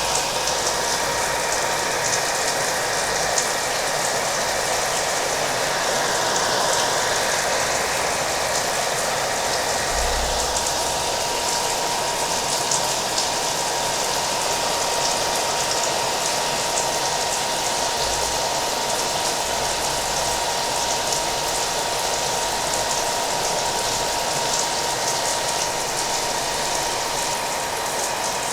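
Hair dryer running steadily with a constant whine, mixed with the sound of rain pattering.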